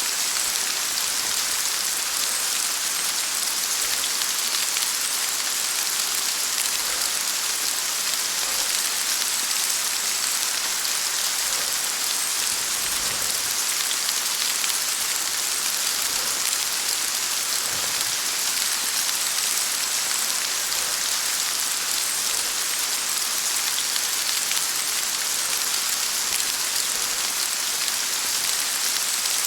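Steady heavy rain falling, a dense, even hiss of drops that does not change throughout.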